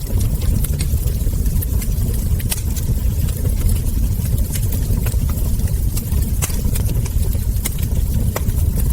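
Wood fire crackling: irregular sharp crackles and ember pops over a steady low rumble.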